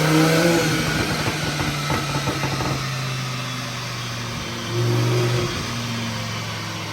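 Twin-turbo Audi R8's V10 engine running at low revs, with a brief swell in engine sound about five seconds in.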